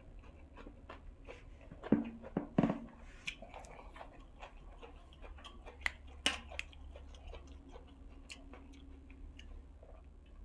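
A person chewing close to the microphone, with crisp crunches and wet mouth clicks at an irregular pace, the crunches typical of fresh raw vegetables. A few louder crunches come about two seconds in and again around six seconds.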